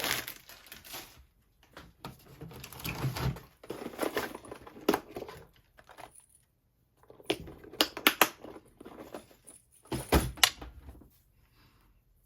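Paper and small craft pieces being handled on a work table: rustling in three stretches, with several sharp clicks and taps, dying away near the end.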